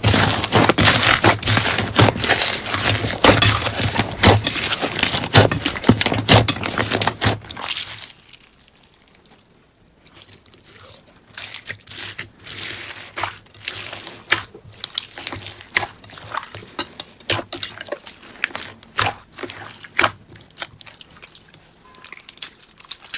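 Slime being handled, making close crackling and popping sounds: dense and loud for about eight seconds, then a pause of about two seconds, then sparser, quieter clicks and pops.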